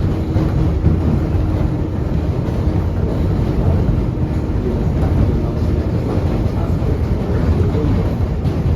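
NYC Subway R142A car running between stations, heard from inside the car: a steady rumble of steel wheels on the rails and the car body, with a faint hum that fades about three seconds in.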